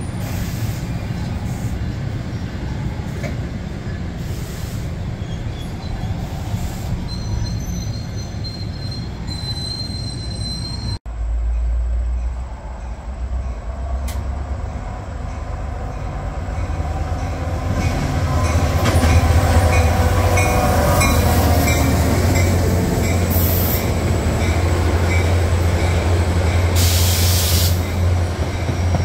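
A passenger train rolling past on the rails, cut off abruptly about 11 s in. Then a diesel-hauled Metro-North train approaches and passes close by: a loud, steady low engine drone from about 18 s, with wheel-on-rail noise and brief high-pitched squeals from the wheels near the end.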